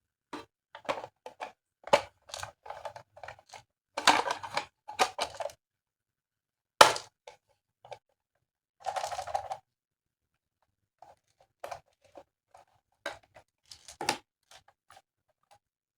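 Plastic toy parts being handled and fitted together: an uneven run of clicks, clacks and short rustles, busiest in the first half and sparser toward the end.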